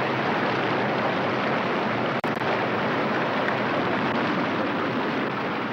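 A waterfall that drops about 30 feet in three jagged falls, rushing loudly and steadily, with a brief dropout in the sound about two seconds in.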